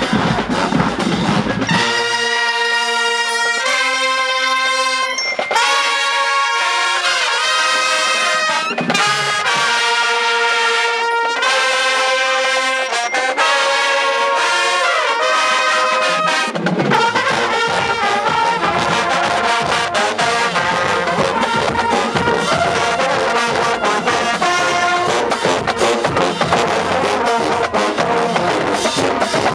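Marching band brass section, trumpets and trombones, playing held chords and moving melody lines with no low end or drums beneath them. About halfway through, the full band's low brass and percussion come in and the sound fills out.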